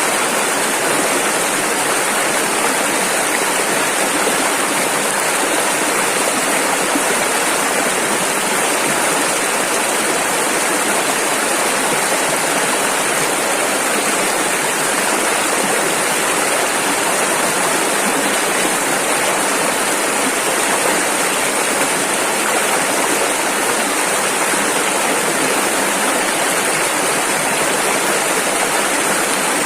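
Rushing river: fast water flowing over rapids in a loud, steady rush without a break.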